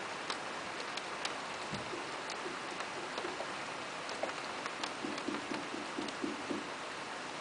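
Rain falling steadily, an even hiss with individual drops ticking sharply at irregular moments. About five seconds in comes a short run of lower, duller taps.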